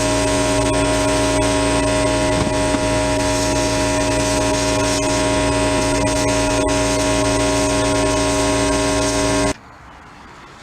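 A machine or power tool running steadily, a hum of several fixed tones over a hiss, which stops abruptly about nine and a half seconds in.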